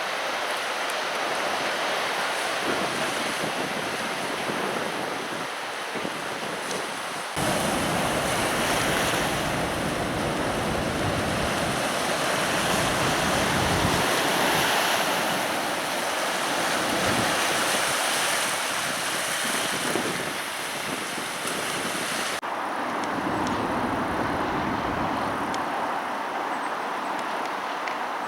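Storm-swollen Guadalhorce river rushing: a steady roar of fast floodwater, with wind buffeting the microphone. The sound gets suddenly fuller and deeper about seven seconds in and drops back about twenty-two seconds in.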